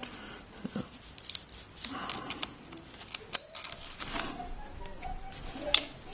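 Small scrapes and clicks of a razor tool working cracked glass and its adhesive off an iPad's frame, with a few sharp ticks, the sharpest about halfway through.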